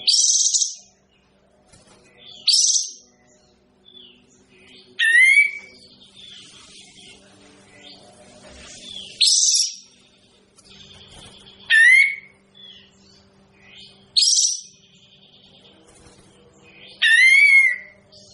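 A kapas tembak songbird calls in loud, short phrases about every two to three seconds; several phrases hold quick sweeping notes that rise and fall. A faint steady hum runs underneath.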